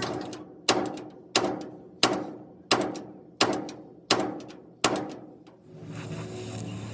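Hammer striking steel in slow, even blows, seven strikes about two-thirds of a second apart, each ringing briefly.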